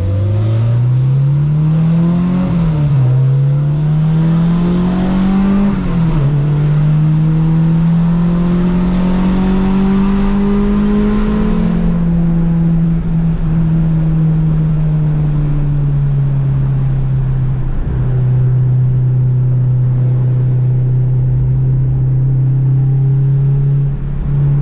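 Honda Civic's four-cylinder engine accelerating hard up through the gears. The revs climb and drop at two upshifts, rise to their highest about twelve seconds in, then ease off and hold a steadier, lower note.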